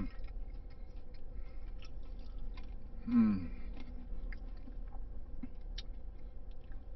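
Close-up chewing of a mouthful of crispy hand-breaded fried chicken sandwich on a brioche bun, the breading crunching in many small crisp clicks. About three seconds in there is one short falling hum from the eater.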